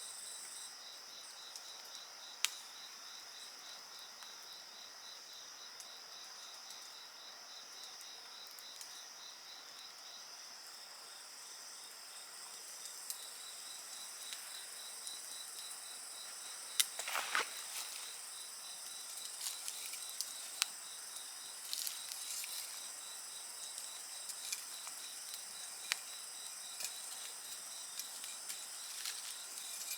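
A chorus of insects trilling steadily at a high pitch, with one trill pulsing rapidly, over a wood fire crackling with sharp pops. The pops grow more frequent from about halfway, with a brief dense crackle burst a little past the middle.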